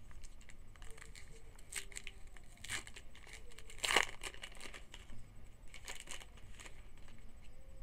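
Wrapper of a 2011 Topps Rising Rookies football card pack being torn open and crinkled, with scattered crackles, the loudest about four seconds in.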